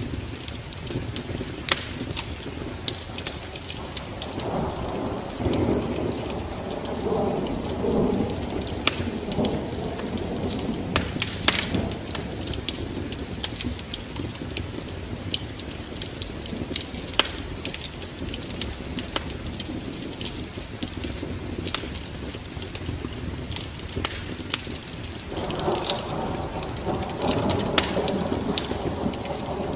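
Fire burning in a fireplace: scattered sharp crackles and pops over a low rumble of the flames, growing louder for a few seconds a little after the start and again near the end.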